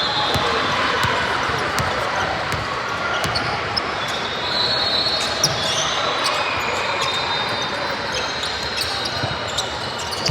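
Spectators' background chatter, with scattered sharp knocks and taps.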